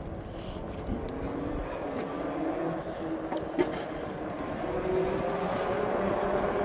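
Electric bike riding along: a motor whine that rises slowly in pitch as it speeds up, over low tyre rumble and wind noise.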